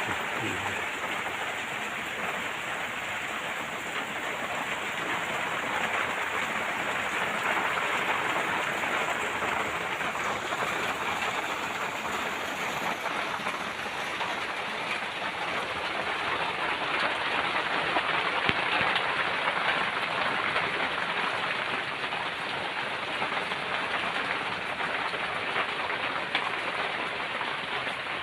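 Steady rain falling: an even, unbroken hiss of many drops that holds the same level throughout.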